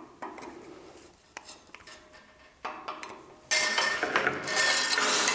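Metal tools and parts clinking and clattering: a few light clicks, then about three and a half seconds in a loud, continuous metallic rattle and scrape, as screws and small steel parts are handled while the band saw's blade guards are taken off.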